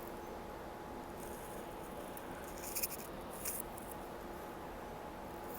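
Steady interior hum of a TTC streetcar with two faint constant tones, and a few brief light ticks or rustles near the middle.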